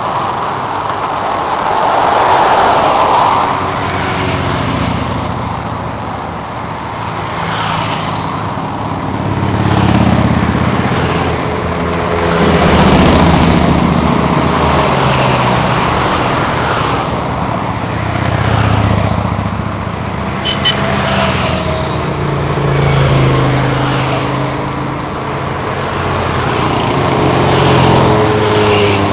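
Motorcycle engines on the road with passing traffic: the engines swell and fade every few seconds as the bikes go by, with a short sharp tick about two-thirds of the way through.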